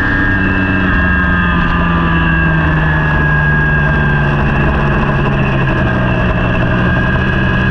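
Superbike engine running at steady, fairly low revs, its pitch easing down slightly over the first few seconds and then holding.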